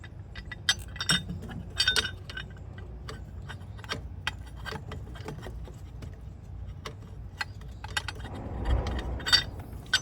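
Hand tools and steel bolts clinking and tapping in irregular metallic clicks while an engine bracket is fitted. A brief low scuffling of handling noise comes near the end.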